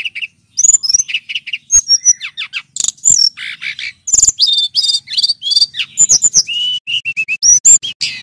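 Male brown-chested jungle flycatcher (sikatan rimba dada coklat) singing a fast, varied song of high whistled and trilled phrases with short pauses between them.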